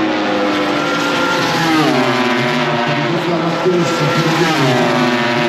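MotoGP racing motorcycles' four-cylinder engines running at high revs. The pitch drops sharply about two seconds in and again near the end as the revs come down, then climbs back up.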